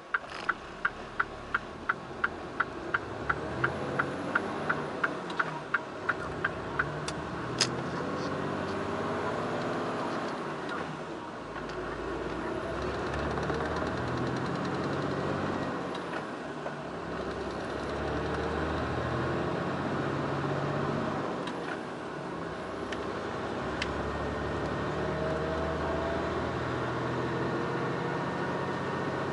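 Mitsubishi Fuso Super Great's 6R20 diesel engine running in the cab of the tractor-trailer as it pulls away, engine speed rising and falling. For the first seven seconds the turn-signal relay ticks quickly, about three clicks a second.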